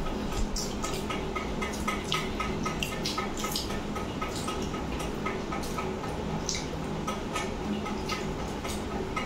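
Wet clicks and smacks of someone chewing chicken and rice eaten by hand. Underneath runs a faint steady ticking, about four ticks a second, with a low hum.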